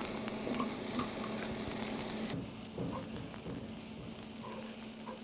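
Riced cauliflower sizzling in hot olive oil in a cast iron skillet, with light scrapes of a wooden spoon stirring it. The sizzle drops suddenly in level about two seconds in.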